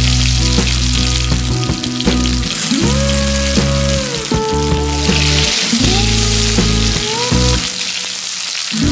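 Cashews and raisins frying in hot ghee with whole spices in a kadai, sizzling steadily. Background music plays alongside, with held notes that fall away near the end.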